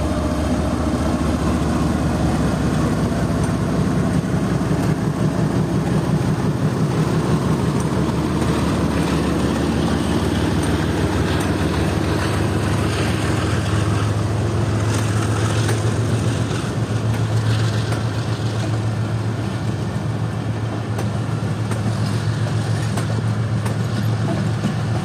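A departing passenger train: the diesel locomotive's engine runs as it pulls past, then the coaches roll by with a continuous rumble of wheels on rails and short clacks. A steady low hum comes in around the middle.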